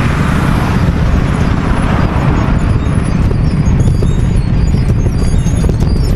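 Wind buffeting the microphone of a moving bicycle, a loud, unsteady low rumble mixed with road noise. Faint high chirps join in about four seconds in.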